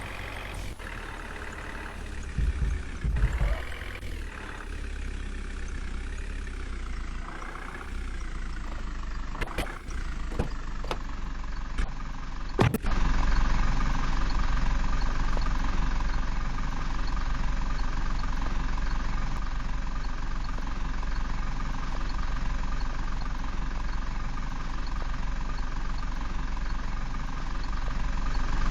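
Diesel tractor engine running at idle, its pitch shifting a little in the first few seconds. About thirteen seconds in there is a sharp click, and the engine then runs louder and steady.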